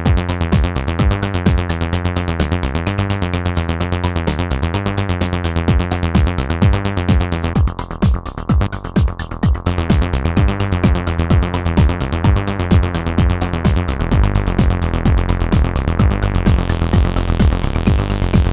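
Acid-style sequenced bassline from two Behringer TD-3-MO (TB-303-style) synthesizers playing in unison, over a steady electronic drum beat from a Roland JD-Xi, unprocessed. About eight seconds in, the top end drops away for about two seconds before the full pattern returns.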